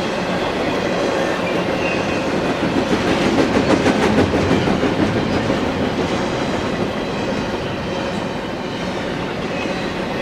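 Double-stack intermodal freight train's well cars rolling past close by: a steady rumble of steel wheels on rail with a rhythmic clacking, swelling a little about three to five seconds in.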